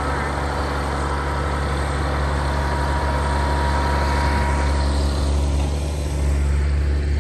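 Case IH Magnum tractor's diesel engine running steadily, a heavy low drone, with a thin high whine over it that fades out about two-thirds of the way through.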